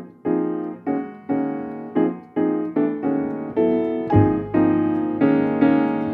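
Background piano music: single notes struck in a steady, even rhythm, with a deep bass note joining about four seconds in.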